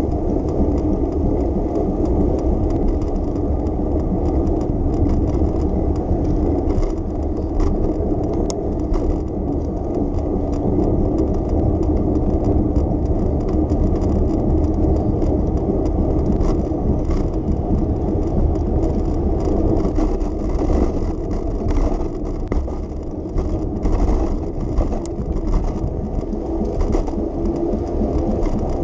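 Steady low rumble of a bicycle ride through city streets, with light rattles, clicks and knocks throughout.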